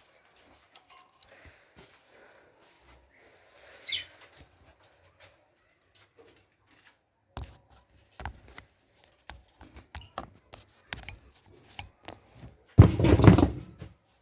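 Scattered knocks and clicks from cleaning work in a bird aviary, with a single short falling chirp about four seconds in. Near the end there is a louder rough scraping or rustling burst lasting about a second.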